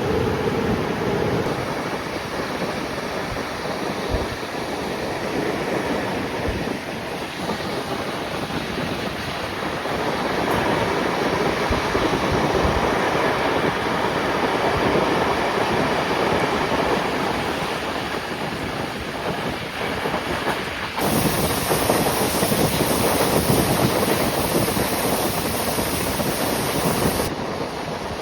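Passenger train running on the rails as it gathers speed: a steady rolling rumble and hiss with some clickety-clack. About three quarters of the way through, a brighter, louder rushing hiss joins for several seconds, then drops away.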